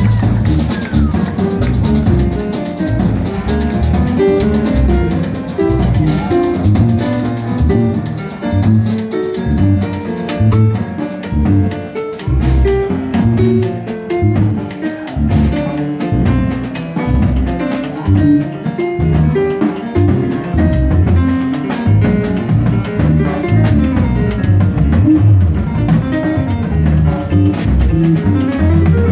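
Jazz band playing with drums and a prominent bass line of strong, moving low notes.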